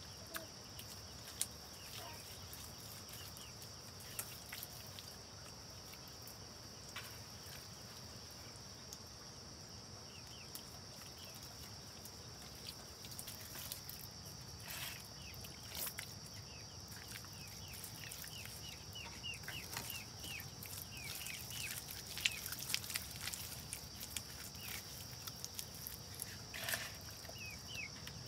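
Rural farmyard ambience: many short, high chirping bird calls, sparse at first and coming thick and fast in the second half, over a steady high-pitched drone, with scattered light clicks and knocks.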